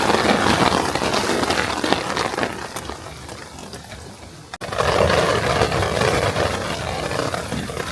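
Strong wind gusting, a loud rushing that swells and fades. It breaks off sharply about halfway through, then another gust rises.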